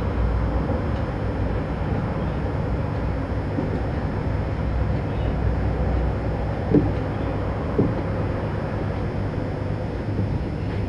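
Steady low background rumble, with two short knocks about two-thirds of the way through.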